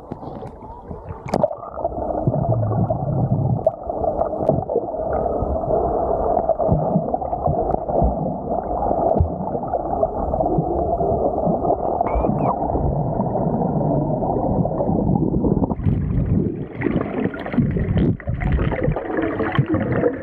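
Muffled rushing and gurgling of water around a submerged camera, dull and cut off in the highs. About 16 s in it turns brighter and fuller.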